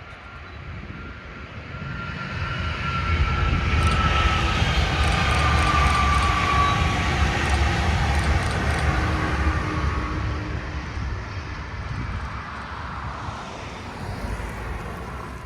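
Brightline high-speed passenger train, led by a Siemens Charger diesel-electric locomotive, passing at over 100 mph. The sound builds over a few seconds, holds loud for several seconds with a whine that slowly drops in pitch, then fades away.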